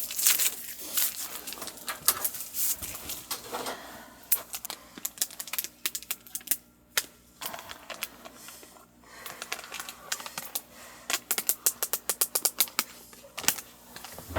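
Quick runs of light, sharp clicks and taps from small hard objects knocking together, with a dense run near the end.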